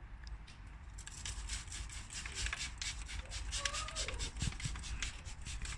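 A detailing brush scrubbing cleaner over engine-bay surfaces: quick, scratchy bristle strokes that start about a second in and run on in a rapid, uneven rhythm.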